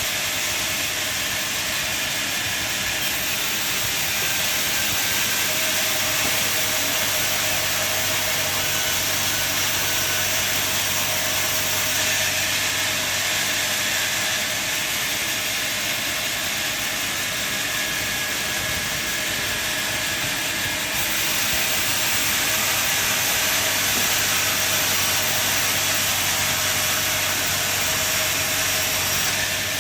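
Sawmill machinery running steadily: an even, loud hiss over a low motor hum, with no separate knocks or pauses.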